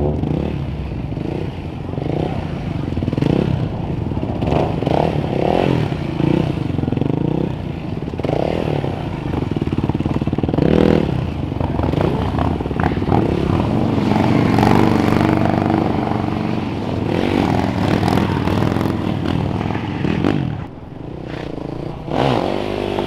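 A vehicle engine revving hard, its pitch rising and falling over and over, then held at a steadier high speed for a few seconds before dropping near the end.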